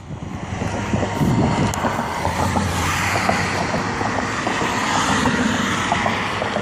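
Diesel locomotives of a Florida East Coast Railway freight, GE ES44C4 units, passing close by with their engines running in a loud, steady rumble, mixed with wind on the microphone.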